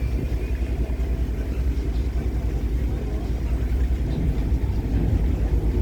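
Boat engine running at low speed with a steady low rumble, as the boat eases into a lock chamber.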